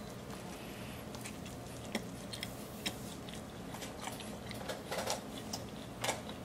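A person biting into and chewing a mouthful of double cheeseburger with bacon and french fries: quiet, wet chewing with scattered small mouth clicks and smacks.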